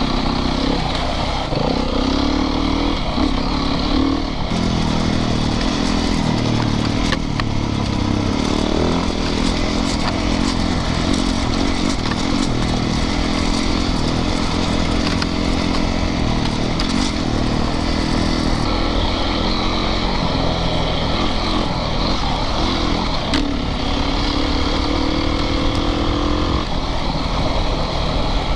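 Yamaha YZ450FX dirt bike's single-cylinder four-stroke engine running on a trail ride, its revs rising and falling with the throttle, with a few sharp clicks along the way.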